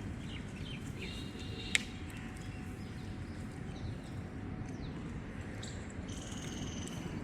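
Outdoor ambience: a steady low rumble with faint, high bird chirps, and a single sharp click a little under two seconds in.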